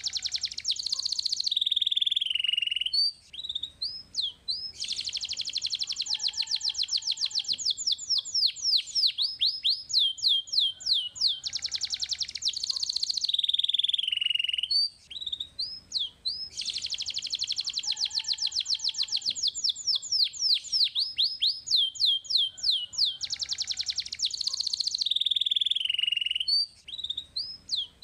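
Domestic canary singing: long, fast trills of rapidly repeated notes alternating with falling sweeps and short chirps, broken by brief pauses about 3, 15 and 27 seconds in. The same song sequence plays twice, as a looped training recording.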